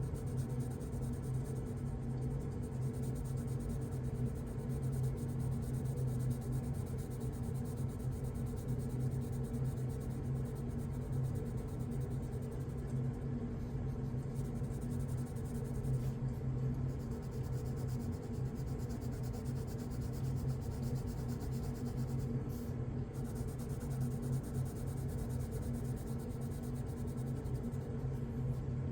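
Coloured pencil scratching on paper in continuous shading strokes, over a steady low hum.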